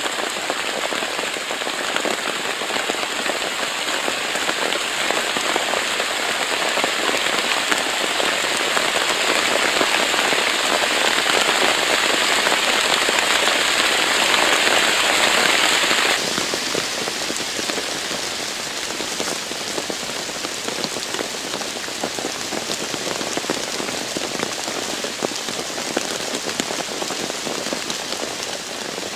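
Heavy downpour of rain, a dense hiss of countless drops striking; it turns abruptly a little quieter about halfway through.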